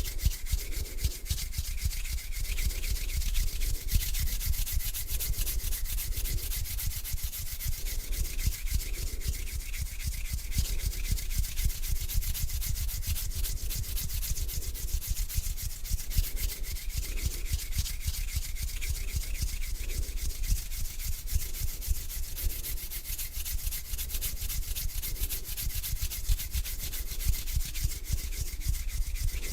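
Hands rubbing together slowly, a continuous dry swishing full of fine crackles.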